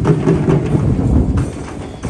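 Steady rumble and rattle of a home-made wooden cart's wheels rolling over the road.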